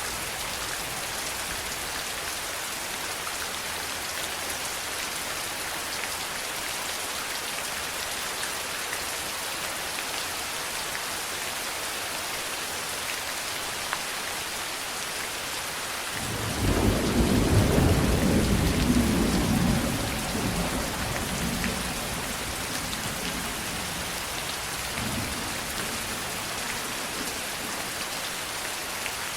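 Steady heavy rain falling, with a roll of thunder rumbling in about halfway through, loudest for a few seconds before dying away, and a faint after-rumble a few seconds later.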